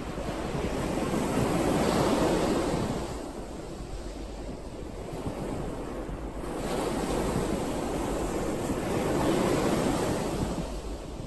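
Sea waves surging in and washing back. The rush rises and falls in two swells, one about two seconds in and a longer one from about seven to ten seconds, with a lull between.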